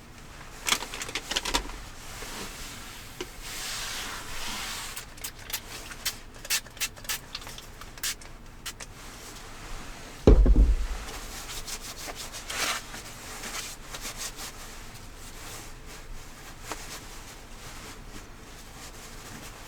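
Rubbing and scraping noises from things being handled, with scattered small clicks, and one heavy dull thump about ten seconds in.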